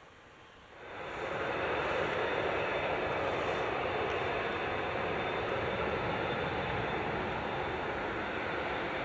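Jet airliner engines, a loud, steady rushing noise that comes in suddenly about a second in and holds.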